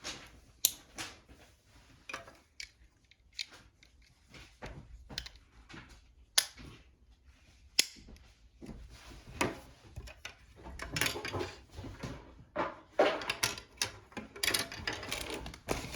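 Small plastic construction-kit parts clicking and knocking as they are handled and fitted together, in irregular sharp clicks that grow busier over the second half.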